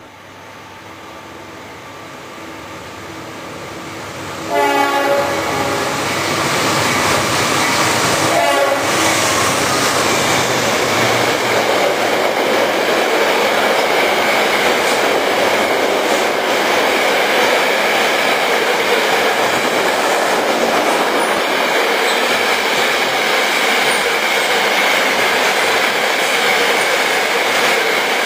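CSX freight train approaching with its horn sounding, growing louder. About four and a half seconds in, the locomotive reaches the platform and the sound jumps up. Then a long string of hopper cars rolls past with a steady loud rumble and wheel clatter.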